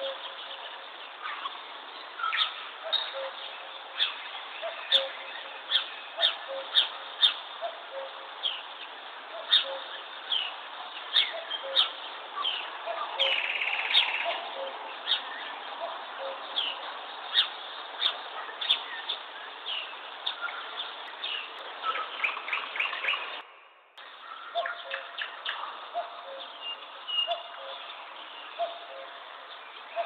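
Several songbirds chirping and calling: many short, sharp chirps over a busy background of other calls, with a low note repeating underneath. The sound briefly drops out about three-quarters of the way through, then the chirping carries on.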